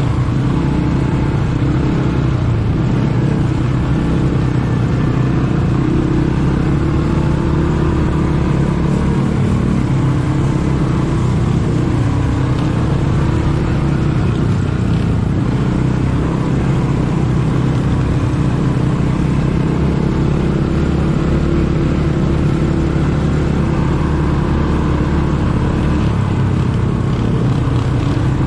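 ATV engine running steadily while riding, its note holding fairly even.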